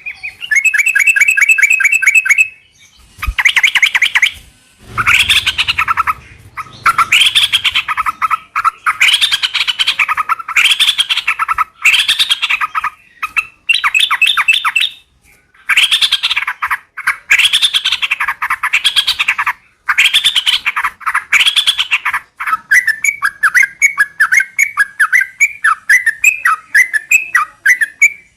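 Yellow-vented bulbul (trucukan) singing loud bubbling phrases about a second long, repeated with short pauses. Near the end the song turns into a fast run of short rising chirps.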